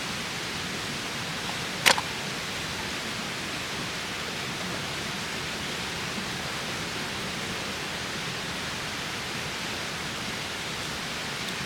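Steady, even rushing noise of the outdoors, with no rise or fall in level. A single sharp click comes about two seconds in.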